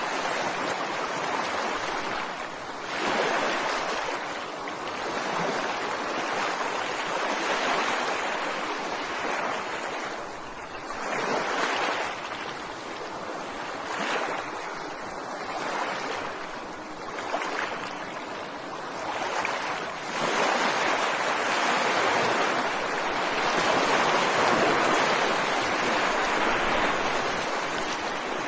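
Ocean waves washing onto a beach: a steady rush of surf that swells and eases every few seconds as waves break and draw back, fullest near the end.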